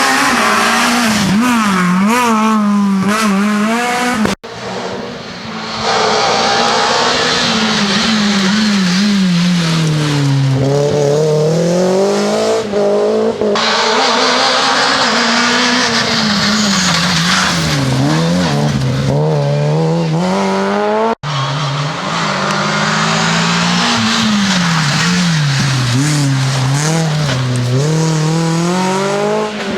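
Rally car engines revving hard, the pitch climbing and dropping again and again with gear changes and lifts, with tyres squealing and skidding. The sound cuts abruptly to a different car twice, about four and twenty-one seconds in.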